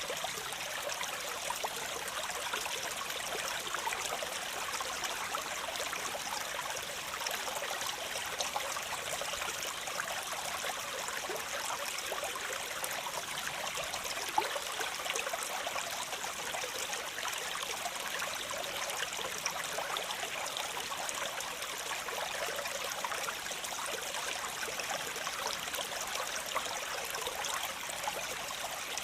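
Water splashing and running steadily over a small waterfall, an even rushing with fine splashes and little deep rumble.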